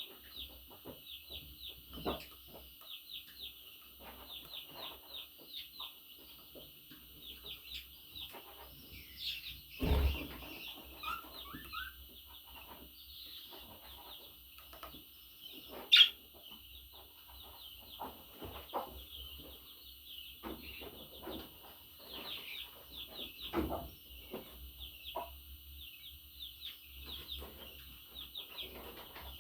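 Budgerigars chattering: a steady stream of rapid, high chirps and warbles. A few knocks break in, the loudest a sharp click about 16 seconds in.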